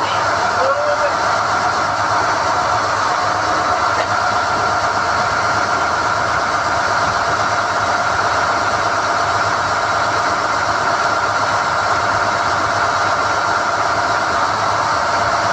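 SDH-1600 core drilling rig running steadily, its machinery holding one even drone with a high whine over it.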